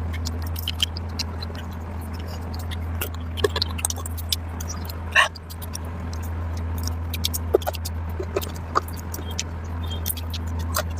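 Close-miked wet chewing of curry and rice: frequent sharp mouth clicks and smacks, with one louder smack about five seconds in, over a steady low hum.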